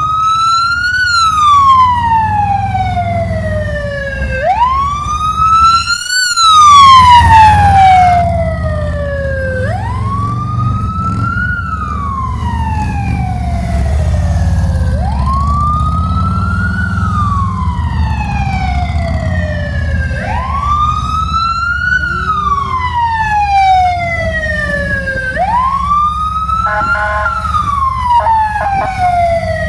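Police motorcycle siren on wail, rising quickly and falling slowly about every five seconds, over a steady low engine rumble.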